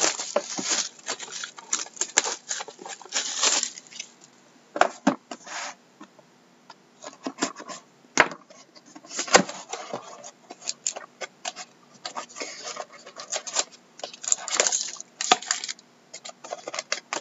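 Plastic shrink-wrap on a sealed trading-card hobby box being torn off and crinkled, with clicks and scrapes of the cardboard box being handled, in irregular bursts with short pauses.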